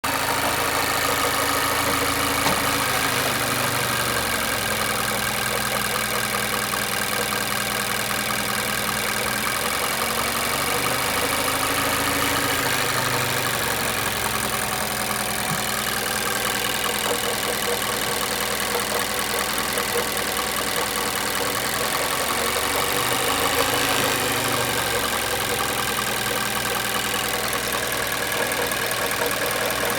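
Mazda SkyActiv-G 2.5 four-cylinder petrol engine idling steadily with a knock in the engine, which the owner hears both at idle and in drive and cannot explain.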